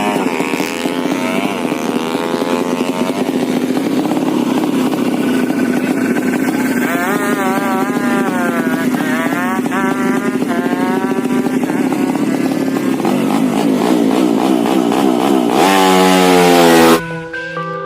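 Tuned Honda C70 with a 200cc Karisma-based single-cylinder engine running, its revs swinging up and down several times and climbing sharply near the end. Electronic music takes over about a second before the end.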